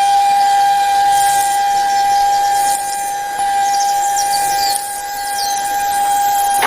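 Small electric motor of a homemade mini tractor whining at a steady high pitch, with no change in speed.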